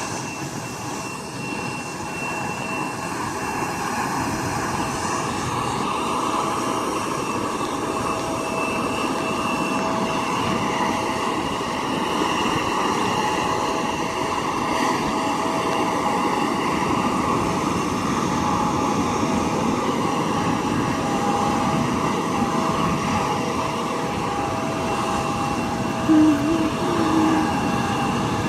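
Jet aircraft engines running steadily at ground idle: a constant rumble with a steady high turbine whine over it. Near the end a brief, louder sound stands out.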